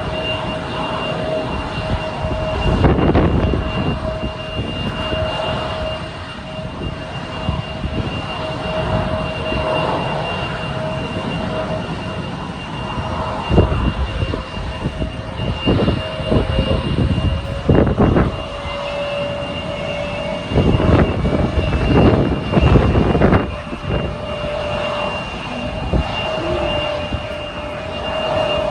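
Jet airliner engines running with a steady two-tone whine, over a rushing noise that surges louder several times in the second half.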